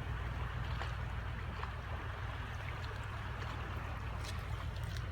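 River water running over a stony bed: a steady rush with a low rumble underneath.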